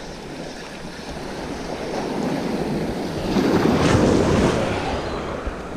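Sea waves on the shore, with one wave surging and breaking loudest about three and a half seconds in, then washing back down; wind rumbling on the microphone.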